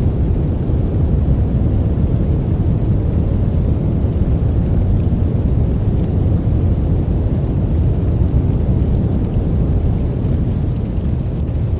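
Steady, deep sleep noise: a 'white noise' track weighted to the low end so it sounds like a soft, even rumble, with no changes or breaks.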